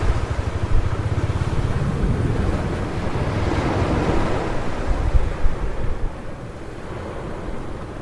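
Ocean surf breaking and washing up a beach, with wind buffeting the microphone. The wash swells in the middle and eases off after about six seconds.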